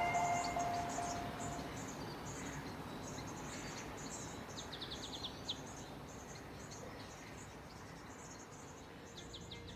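Small birds chirping: repeated short high notes, with a quick run of falling notes about five seconds in, over a faint hiss. A held musical tone fades out at the start.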